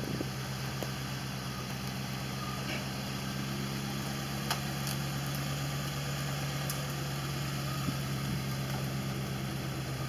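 Land Rover engine running steadily at low revs, near idle, as the vehicle crawls slowly over rough woodland ground, with a couple of light clicks.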